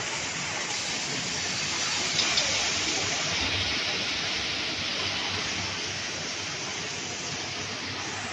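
Steady, even noise of a running puff-snack extrusion production line, with a couple of short clicks about two seconds in.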